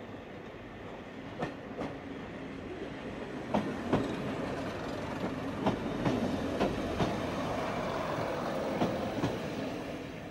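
Heritage first-generation diesel multiple unit running past along the platform, its wheels clicking over the rail joints in pairs. It grows louder towards the middle and fades as it goes away near the end.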